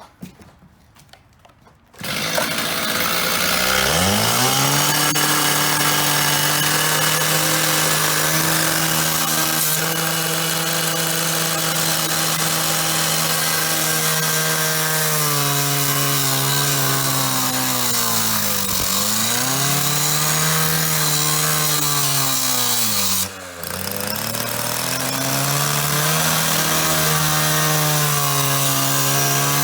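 Handheld electric power tool spinning up about two seconds in and cutting into the payphone's metal face, its motor running steadily with a hiss of cutting above it; the motor slows under load twice and briefly cuts out near the end before spinning back up.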